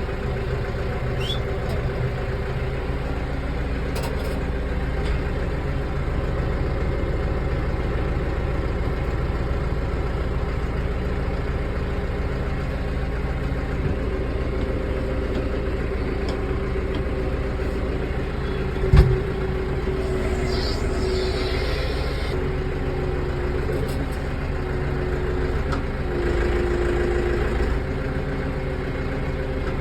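Tractor engine running steadily just after being jump-started from a dead battery. A single sharp knock stands out about two-thirds of the way through.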